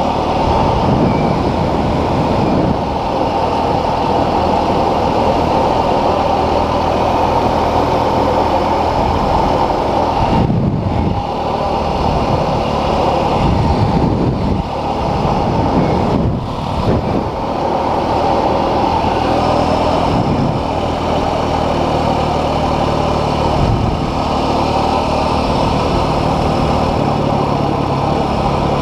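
Dual-sport motorcycle engine running while riding, with the throttle eased off and picked up again briefly a few times around the middle.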